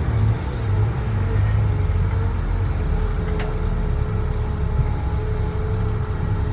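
Heavy construction machinery's diesel engine running steadily: a low rumble with a steady whine on top.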